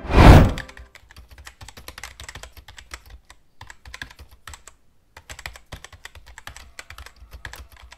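A loud short thump at the start, then typing on a computer keyboard: quick, irregular key clicks with a couple of brief pauses.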